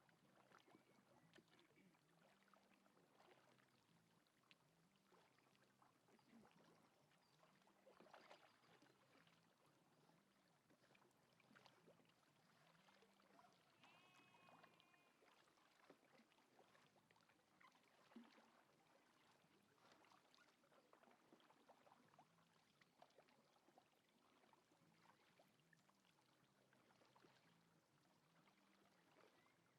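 Near silence with faint, irregular water splashes and drips, as from kayak paddles dipping in calm sea water. A brief faint pitched call sounds once, about halfway through.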